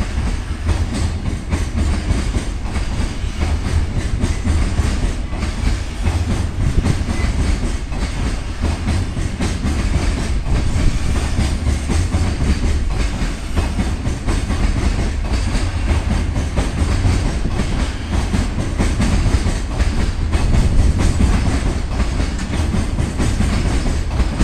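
Freight train of container flat wagons rolling past: a steady heavy rumble of wheels on the rails with the clickety-clack of the wheelsets running over the track.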